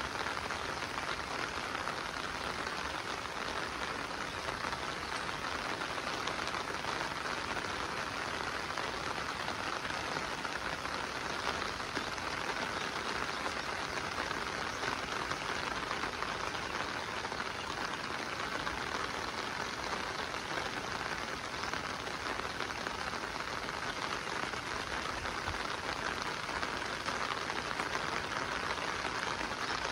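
Steady monsoon rain falling, an even wash of sound with no breaks or rises.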